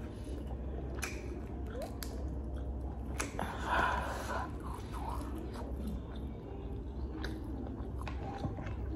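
Close-up chewing of crab meat, with scattered sharp clicks from the shell of a king crab leg being handled and picked apart. A louder burst of mouth noise comes about four seconds in, over a steady low hum.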